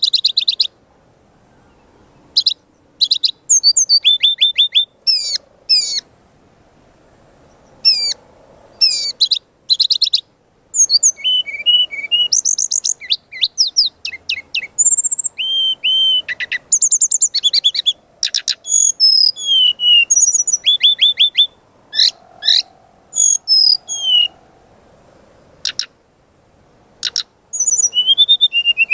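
Brown-chested jungle flycatcher singing vigorously: phrase after phrase of fast, varied high whistles and rapid trills, with short pauses between phrases.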